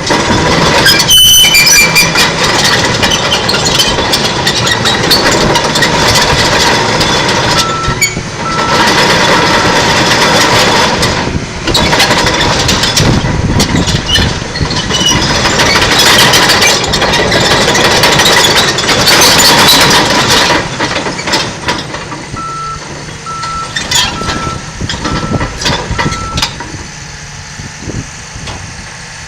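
John Deere 750K crawler dozer working: its diesel engine running loud with frequent clattering knocks, and its reverse alarm beeping in two runs of evenly spaced beeps, about a third in and again near the end. The machine gets quieter over the last few seconds.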